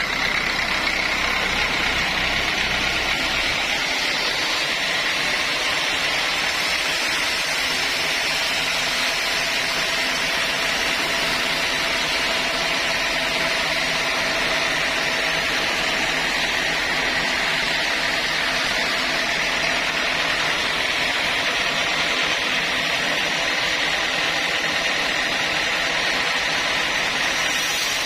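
Sawmill saw running steadily, a continuous mechanical noise with a steady high hum and no breaks.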